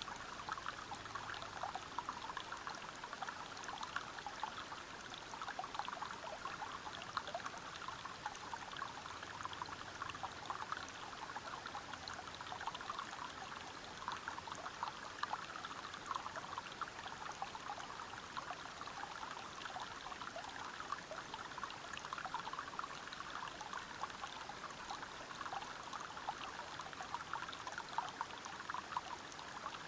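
Water flowing and splashing over rocks in a forest river: a steady, even rush dense with small splashes.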